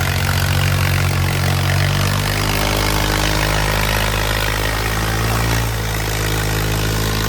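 Diesel tractor engine running steadily, its tone shifting slightly about two seconds in and again a little before the end.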